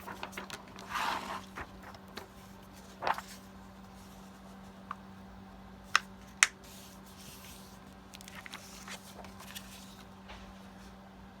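Paper and cardstock being handled: a brief rustle about a second in, then scattered light taps with two sharp clicks around the middle. A steady low hum runs underneath.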